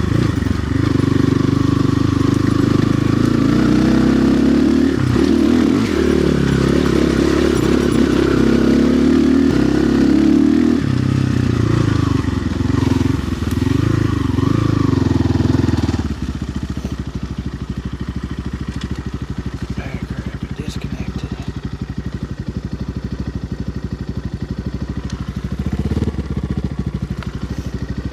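RXB 250XL dirt bike engine running under load, its pitch rising and falling with the throttle as it is ridden. About sixteen seconds in it drops abruptly to a steady idle.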